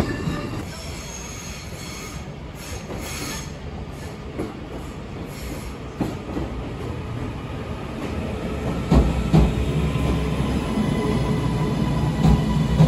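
Passenger trains moving through a station platform. A Northern multiple unit runs in close by with a deep rumble and several sharp clacks from its wheels over the rail joints, plus a faint high wheel squeal.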